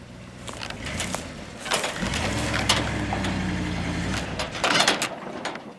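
Four-wheel-drive truck engine labouring under load while dragging a heavy log on a chain, then cutting out about four seconds in as the truck stalls. Crunching, scraping noises from the log and ground come and go around it.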